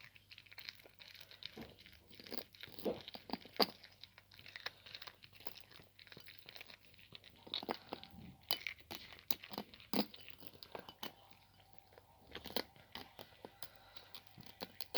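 A cat chewing cooked chicken neck, with irregular crunches as its teeth break the bones.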